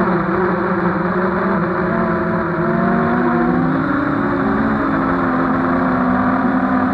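Mini hexacopter's six small brushless motors and propellers whining in flight, heard from the action camera on board: several close tones that waver and shift slightly in pitch over a steady rush of prop wash.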